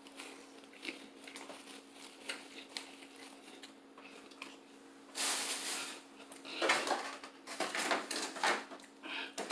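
Chewing and mouth sounds of a man eating a handful of chili cheese fries, made up of scattered small clicks. About five seconds in there is a brief, louder, noisy burst.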